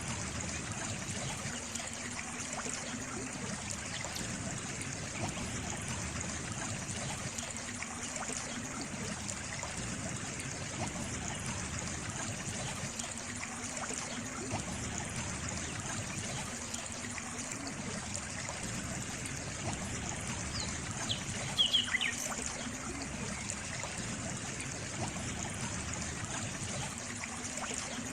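Water trickling and running steadily. Near two-thirds of the way through, a brief series of high chirps stands out above it.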